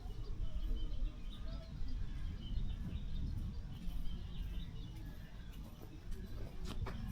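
Wind rumbling unevenly on the microphone, with small birds chirping in short, scattered calls over it.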